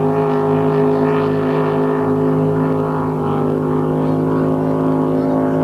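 Motorboat engine running at steady revs, a constant loud drone that holds one pitch.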